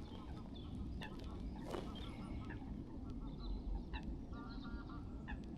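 Water birds giving short, quick series of nasal calls, three runs of several notes each, over a steady low rumble of wind. A few sharp clicks sound in between.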